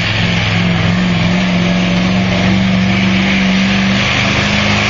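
Ford Power Stroke diesel pickup engine held at high revs under heavy load while pulling the sled, its pitch creeping slowly up.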